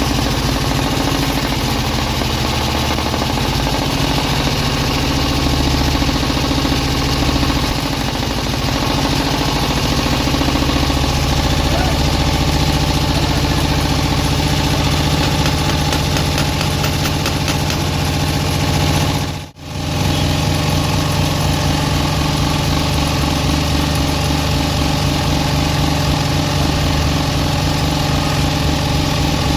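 An engine running steadily, cut off for a moment about two-thirds of the way through and then resuming.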